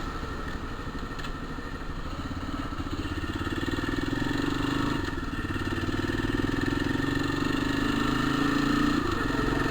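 Motorcycle engine running under way, its note climbing as it accelerates. It drops abruptly around five seconds in, like a gear change, then climbs again, with another brief dip near the end.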